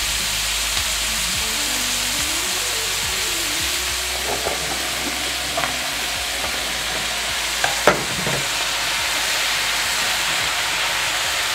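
Green beans sizzling steadily in a hot stainless steel pot. A few sharp knocks come about eight seconds in, as diced raw potatoes are tipped in from a plastic cutting board against the pot and wooden spoon.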